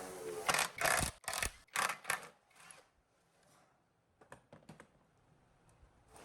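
Hand work on engine parts: a quick run of sharp knocks and short scrapes over the first two seconds or so, then a few light clicks about four seconds in.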